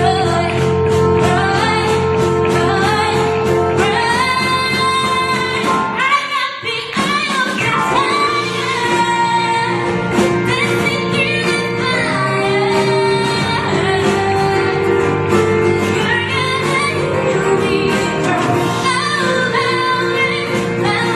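A woman singing a pop song with band accompaniment. The low accompaniment drops out for about a second around six seconds in.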